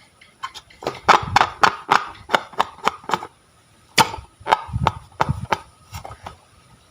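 Slime being pressed and squished by hand, giving a string of irregular sharp crackles and clicks, about three or four a second, with one louder crack near the middle.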